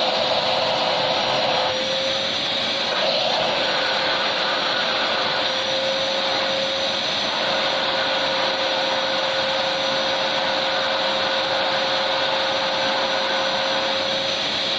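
Electric vacuum cleaner running steadily, a continuous rushing noise with a constant whine through it.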